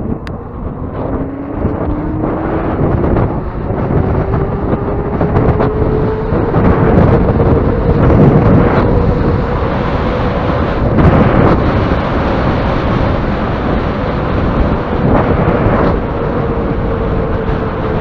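Electric motor of a 72 V e-bike whining under throttle, its pitch rising steadily over the first several seconds as the bike speeds up and then holding, with heavy wind rush over the microphone.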